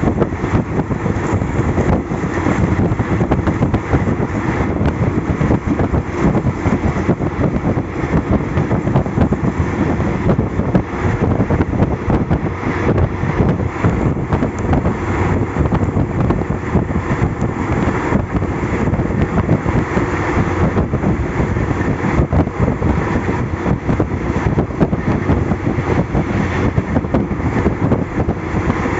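Express passenger train running at speed, heard from inside a carriage: a steady, loud rumble of wheels on the track with wind rushing past.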